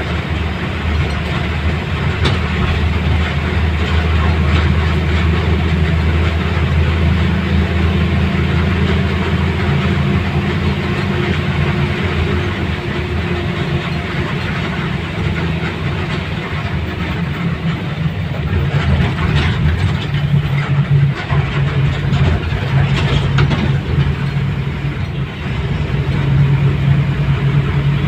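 Steady low rumble of a moving vehicle heard from on board: a droning engine or motor hum under a constant rush of running noise, its pitch shifting a little as it goes.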